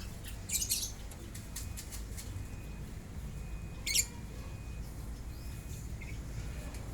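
Lovebirds chirping: a short cluster of high chirps about half a second in and one sharp chirp about four seconds in, with fainter ticks between, over a steady low rumble.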